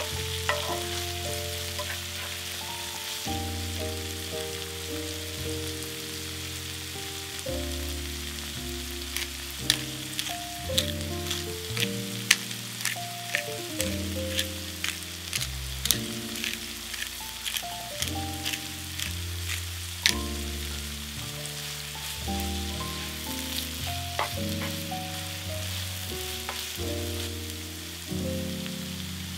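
Sliced onions and red peppers sizzling in oil in a frying pan, stirred with a spatula, with a run of sharp clicks in the middle. Soft instrumental background music with changing notes plays underneath.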